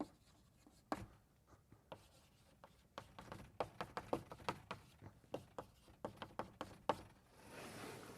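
Chalk writing on a blackboard: a run of sharp taps and short strokes, quickening in the middle, then a longer scraping stroke near the end.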